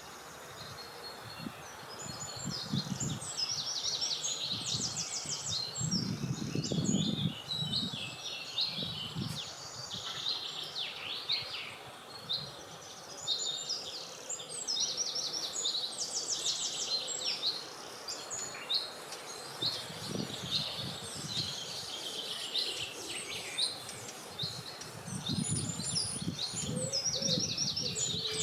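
Several songbirds singing together, overlapping chirps and fast trills with no break. Gusts of wind rumble low several times, strongest about six seconds in and again near the end.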